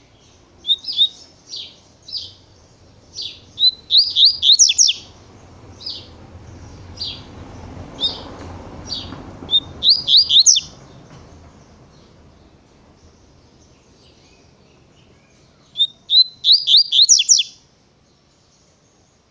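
Double-collared seedeater (coleiro) singing in the tui-tui song style: single high chirps, then rapid phrases of quick rising-and-falling notes, about four seconds in, again at ten seconds, and once more near the end after a pause.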